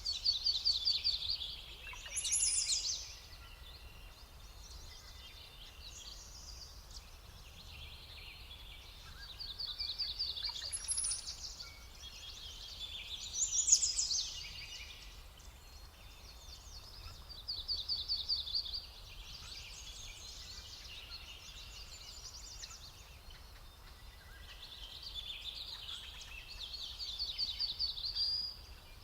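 Songbirds singing: short phrases and quick trills of rapidly repeated notes, coming every few seconds, over a low steady background rumble.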